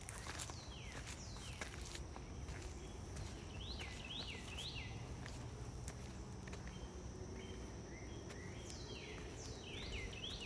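A songbird sings phrases of quick, sliding chirps, three bursts a few seconds apart, over a steady high-pitched hum and a low rumble. A few footsteps tick along the trail.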